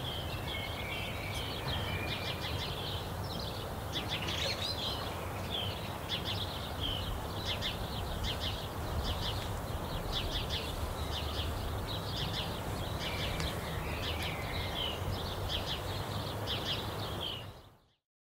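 Small songbirds chirping over and over over a steady low rumble, all fading out quickly near the end.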